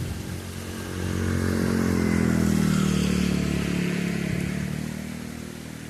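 A motor engine passes by, its hum growing louder over about two seconds and then fading away.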